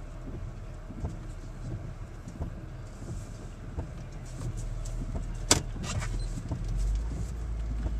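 A car running slowly, heard from inside: a steady low engine and road rumble with small knocks, one sharp click about halfway through, and the low rumble growing louder near the end.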